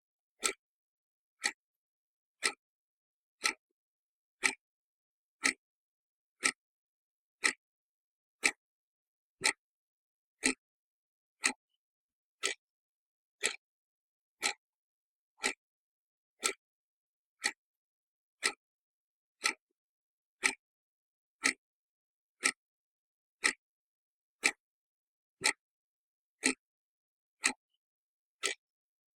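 Clock ticking steadily, one sharp tick each second with silence between the ticks.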